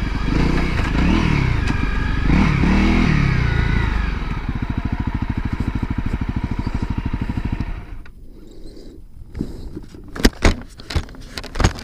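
Honda CRF250L's single-cylinder engine blipping up and down as the bike comes to a stop, then idling steadily until it is shut off about eight seconds in. A few sharp knocks and clicks follow.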